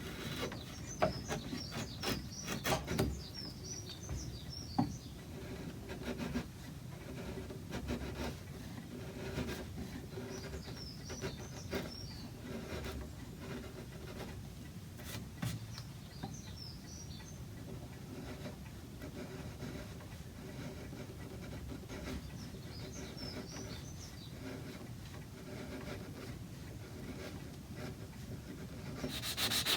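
Scattered knocks and handling sounds from work on a wooden clock case, with a small bird twittering in short bursts several times. A loud rasp of sanding starts near the end.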